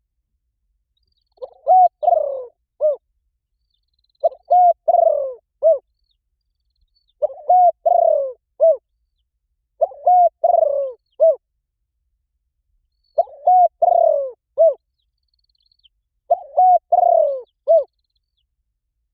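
Spotted dove cooing: six phrases about three seconds apart, each a run of three or four coos, the last one short and set apart.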